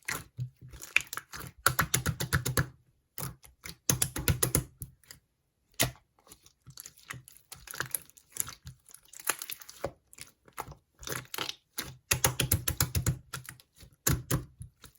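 Slime being squeezed, poked and pressed by hand, making bursts of rapid clicking and popping with short pauses between them.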